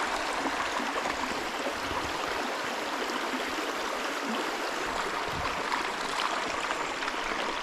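Small creek running: a steady rush of flowing water.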